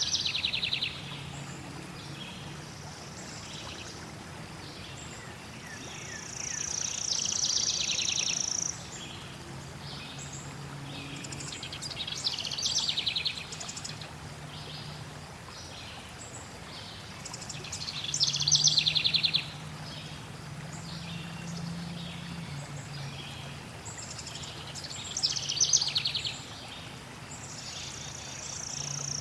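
Songbirds singing short trilled phrases, five of them spaced about five or six seconds apart, over a steady rush of flowing water.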